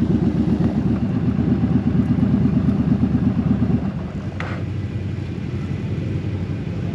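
Motorcycle engine running with a dense, pulsing rumble that drops noticeably in level about four seconds in and carries on quieter.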